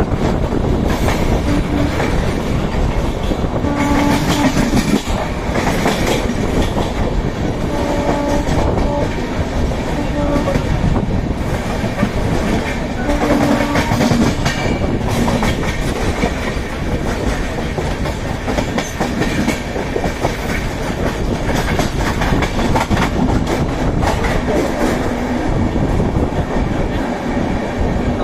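Steady rumble and clatter of train wheels over the rails, heard from the open doorway of a moving passenger train as a container freight train passes on the next track, then a passenger train. A horn sounds briefly three times in the first half.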